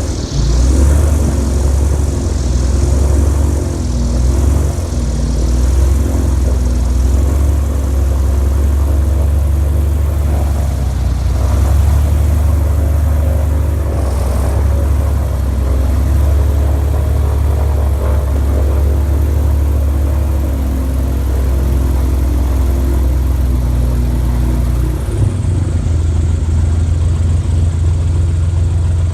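Boat engine running steadily, a loud low drone with a slowly wavering hum that shifts slightly about 25 seconds in.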